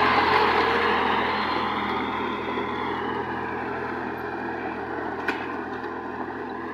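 Sonalika GT 26 mini tractor's diesel engine running steadily, gradually getting quieter. A single short click about five seconds in.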